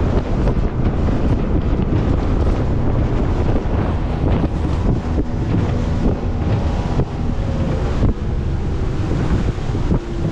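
Heavy wind buffeting the microphone on a moving boat, with water rushing and splashing against the hull.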